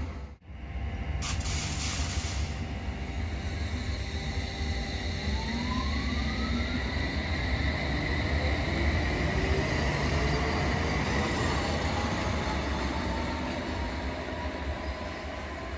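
London Underground S8 Stock Metropolitan line train pulling out of the station, its traction motors whining in several rising tones as it gathers speed over a steady rumble of wheels on rail.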